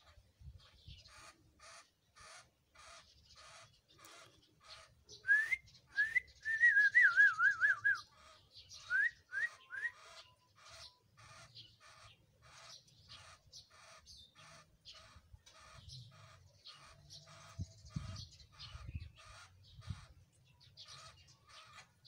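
Bird calling: a steady run of short, harsh notes about twice a second, with a loud burst of whistled, warbling notes that rise in pitch between about five and ten seconds in.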